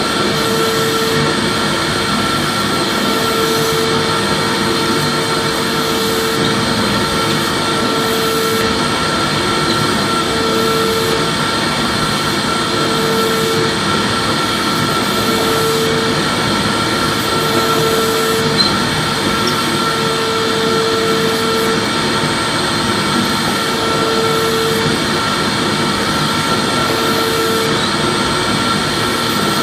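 Vacuum cleaner running steadily: an even, loud whoosh of air with a constant high whine, and a lower hum that comes and goes every second or two.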